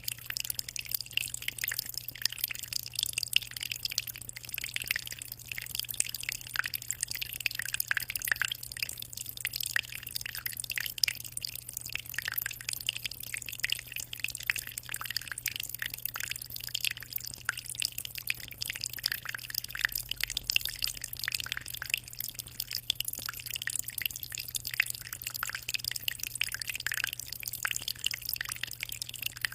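Aquarium water trickling and splashing continuously, with a dense patter of small drips and splashes and a steady low hum underneath.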